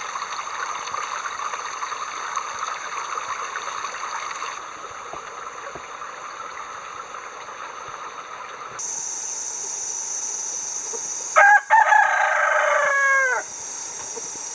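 A rooster crowing once, about two thirds of the way through, its call falling in pitch at the end, over a steady rushing hiss.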